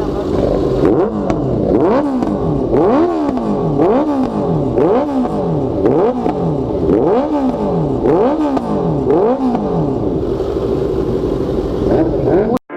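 Honda CBR650F inline-four engine through an aftermarket exhaust, revved repeatedly at a standstill: the pitch climbs and drops about once a second, then it settles to a steadier note near the end before a sudden cut.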